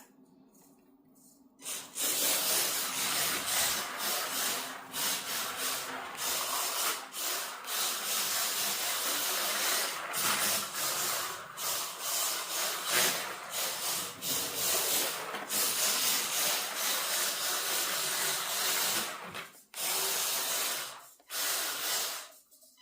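WLtoys K969 RC drift car driving and sliding: its small electric motor running and the hard drift tyres scrubbing, coming and going in bursts with a few short breaks near the end.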